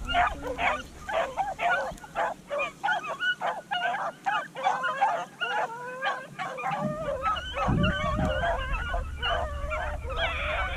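Several beagles barking and yipping in excited, overlapping short calls, several a second, without a break.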